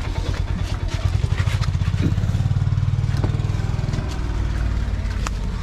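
Hero Xpulse 200 4V's single-cylinder engine idling with a steady, quick pulse. A few light clicks sound over it.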